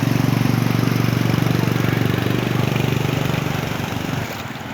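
A small engine running steadily with an even throb, then dropping away sharply about four seconds in, leaving wind and water noise.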